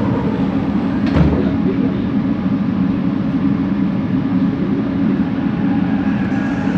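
Bombardier Innovia ART 200 light-metro train running, heard from inside the car: a steady low motor and rolling hum, with a single knock about a second in.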